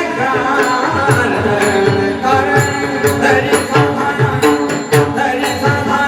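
Marathi devotional bhajan music: a pakhawaj drum keeps a steady, busy rhythm under singing voices, with regular strikes of small hand cymbals (taal).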